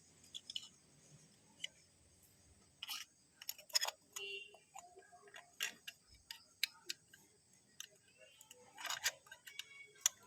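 Irregular light clicks and metal taps of nuts and parts being handled and tightened, with a brief ringing ping about four seconds in and a quick flurry of clicks near the end.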